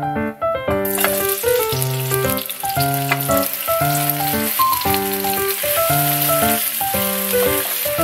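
Chopped kimchi sizzling as it hits hot oil in a frying pan, the steady sizzle starting about a second in, over background piano music.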